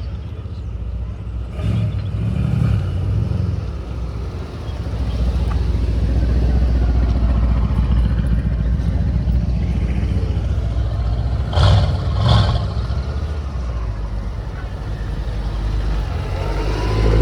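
Car engines running with a deep, steady low rumble. Two short, sharp bursts come close together about two-thirds of the way through, and an engine note builds and rises near the end.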